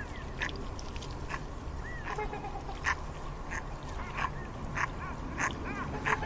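Farmyard fowl calling: many short, sharp calls in quick succession, some rising and falling in pitch, over a steady low rumble.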